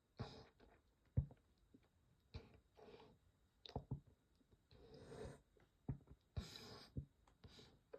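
Quiet breathing sounds from a person: several short hissing breaths and sniffs, with scattered small clicks and one sharper knock about a second in.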